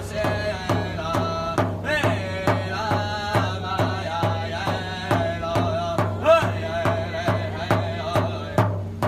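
Group drumming with singing: a steady, even drumbeat about two and a half strokes a second, with voices singing over it.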